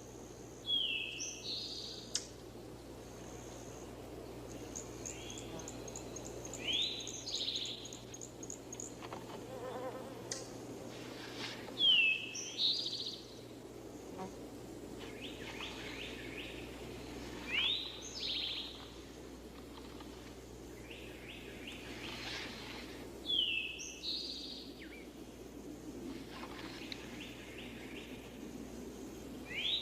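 A bird repeating the same short whistled phrase, about every six seconds, with a quick ticking trill once early on, over a steady low insect buzz.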